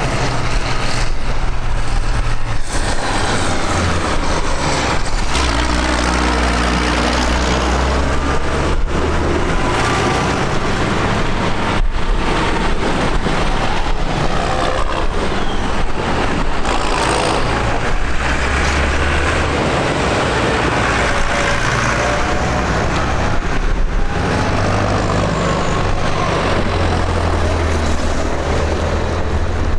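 Tractors' diesel engines running as they drive past one after another: a steady, loud engine drone whose pitch shifts as machines come and go.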